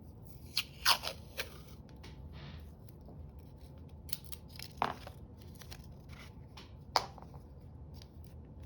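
Scissors snipping paper while paper is handled. There is a cluster of sharp snips about a second in, single snips near five and seven seconds, and light scratchy handling noise between them.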